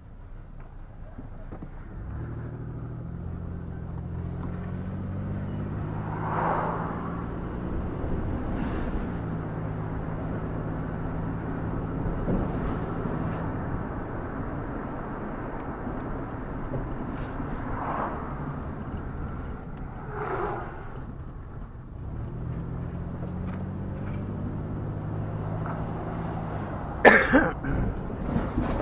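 Vehicle engine and road noise while driving. The engine note picks up about two seconds in, eases off around the middle and picks up again later. A few brief knocks sound near the end.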